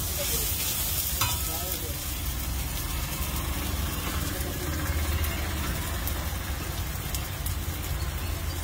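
Scrambled egg and tomato sizzling on a large flat iron griddle as a metal spatula stirs and scrapes it across the iron, with a sharp tap of the spatula about a second in. A steady low rumble runs underneath.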